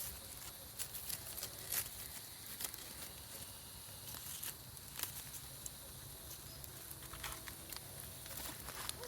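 Wood campfire crackling, with irregular sharp pops scattered through a low steady hiss.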